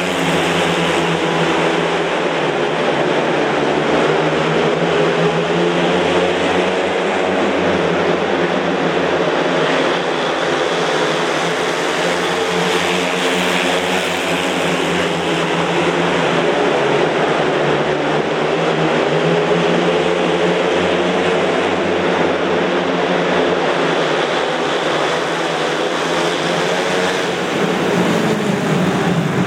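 Several speedway motorcycles racing, their 500 cc single-cylinder methanol engines running at full revs with pitch rising and falling as they go.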